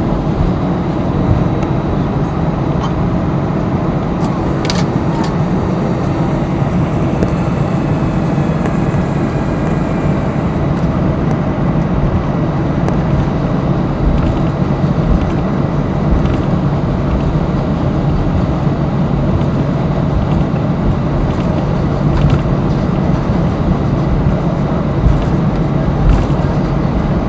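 Steady cabin noise inside an Airbus A320 on the ground, a constant hum from the engines and cabin air system at low power. There is a single sharp click about five seconds in.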